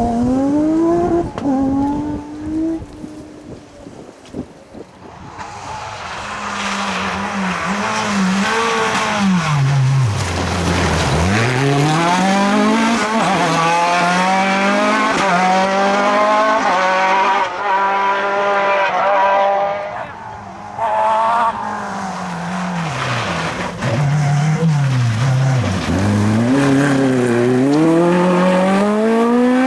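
Off-road rally cars under hard acceleration. The engine note climbs in steps through the gear changes, falls away sharply as the throttle is lifted, then picks up again. A rushing noise of tyres and loose ground runs under it.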